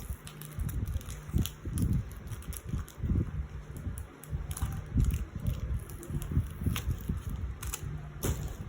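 Photocards and their plastic sleeves handled on a table: irregular soft bumps, taps and small rustles, with a few sharper clicks.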